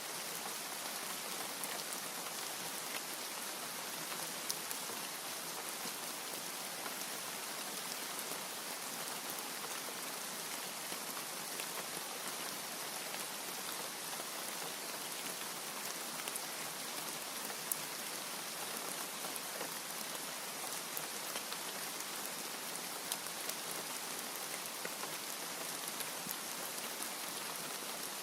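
Steady rain, an even hiss of falling water with scattered louder drop ticks.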